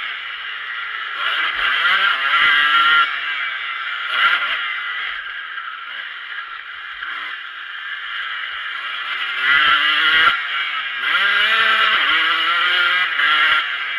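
Motocross bike engine heard up close from an onboard camera, revving hard in repeated rising sweeps through the gears. It eases off the throttle and goes quieter for a few seconds in the middle, then pulls hard again.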